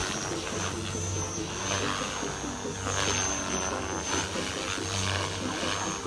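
ALZRC Devil X360 electric RC helicopter in flight: a steady high motor whine over the buzz of the spinning rotor.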